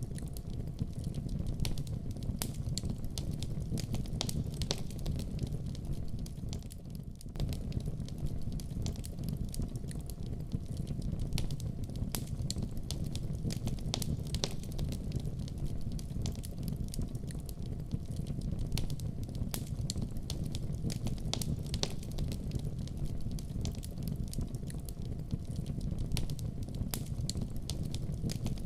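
Wood fire burning in a fireplace: a steady low rumble of the flames with frequent sharp crackles and pops scattered irregularly, briefly quieter about seven seconds in.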